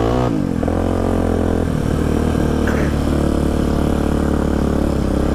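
Polaris Predator quad's engine running under way. Its pitch falls briefly at the start, then it runs steadily.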